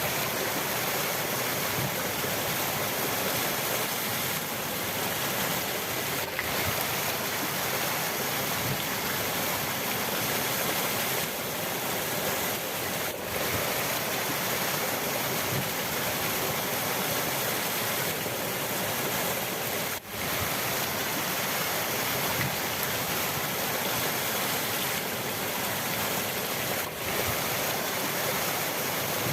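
Rushing river water: a steady, dense hiss of flowing water.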